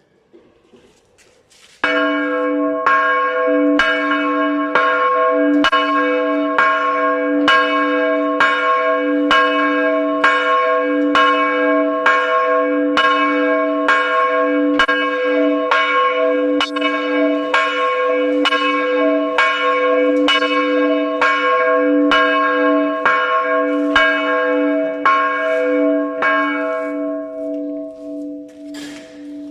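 Catholic church tower bell tolling, struck at an even pace of about one stroke a second, each stroke on the same pitch over a sustained hum. The strokes stop near the end and the bell rings on, fading away.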